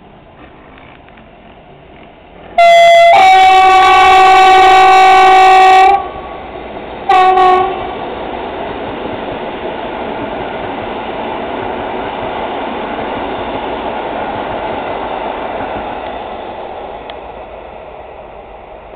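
Electric multiple-unit passenger train sounding its horn: a brief higher note, then a loud blast of about three seconds, then a short blast about a second later. The train then rumbles past on the rails, the noise building and then fading.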